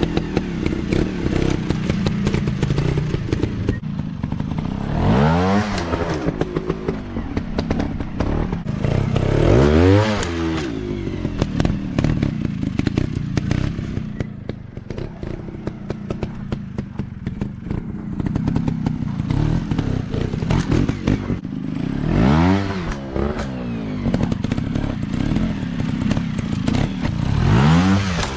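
Dirt bike engines revving up and back down several times, with a quieter stretch in the middle, over constant clattering and knocking.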